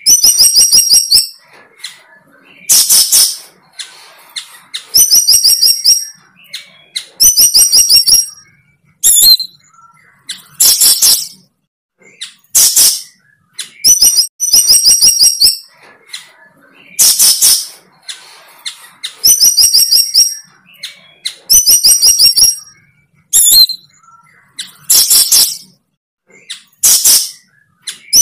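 A bird singing the same short phrase over and over, about every two seconds. Each phrase is a brief harsh rasp followed by a quick run of high, clear notes.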